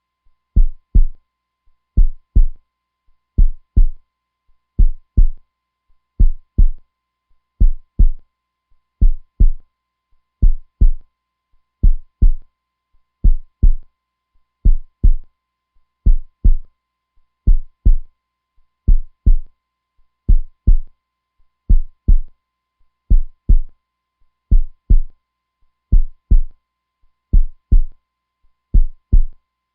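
Steady heartbeat sound, a low lub-dub double thump repeating evenly about once every second and a half.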